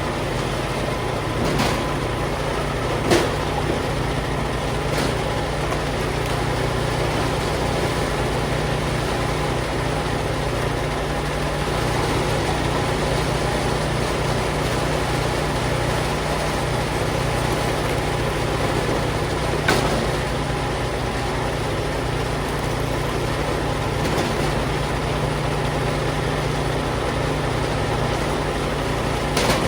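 An engine on firewood-processing equipment running steadily at a constant speed, with a few sharp knocks scattered through it.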